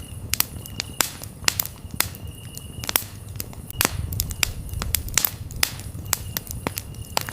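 Campfire crackling, with sharp pops and snaps several times a second over a low rumble of burning wood. Crickets chirp in short high trills that come and go.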